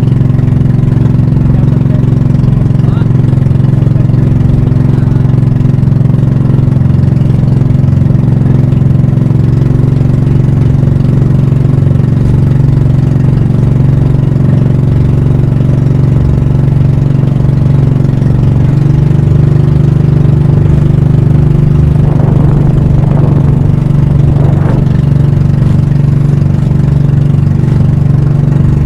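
Banka pump boat engine running steadily at an even speed, with no change in pitch.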